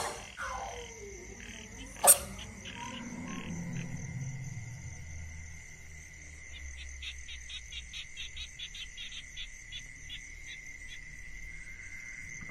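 Frogs calling in a chorus, with a steady high trill throughout and, in the second half, a run of quick pulsed calls at about four a second. A sharp click comes about two seconds in.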